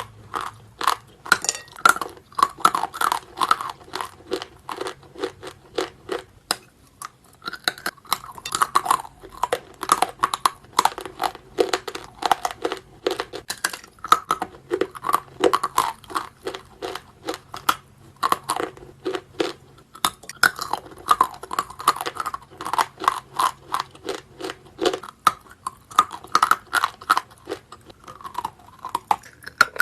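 Close-miked bites and chewing of something hard, dry and crunchy: a dense run of loud crunches with brief pauses about six and nineteen seconds in.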